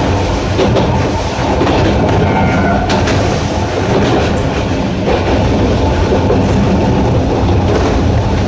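Narrow-gauge electric train of the Sangi Railway Hokusei Line running steadily, with the drone of its nose-suspended traction motors and its wheels on the rails. A faint squeal sounds briefly about two seconds in, and a sharp click comes about three seconds in.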